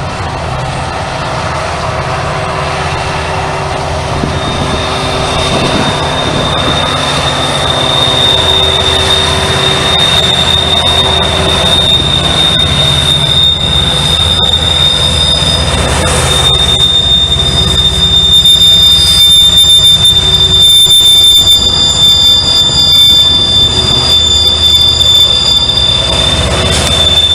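Norfolk Southern freight train rolling past with a low rumble, its wheels squealing in a steady high pitch from about four seconds in, growing louder as the cars come closer.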